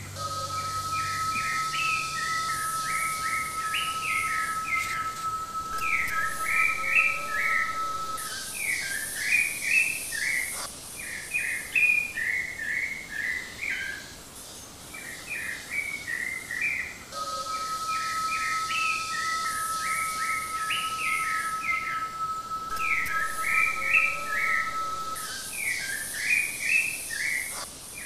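Songbirds chirping in quick, repeated runs of short calls. A long, steady, whistle-like tone is held for several seconds, twice, and a high hiss comes and goes. A classical guitar's last low note dies away in the first second or so.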